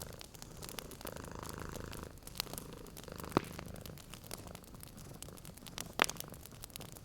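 A cat purring steadily over a wood fire's crackling, with many small crackles and two louder pops from the fire about three and a half and six seconds in.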